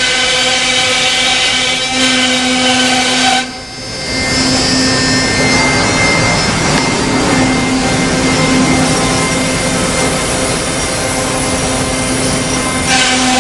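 Reichenbacher CNC machining center running, its router spindle giving a steady high whine. The sound drops briefly about three and a half seconds in, then a rougher, saw-like cutting noise runs under the whine until near the end, when the steady whine returns.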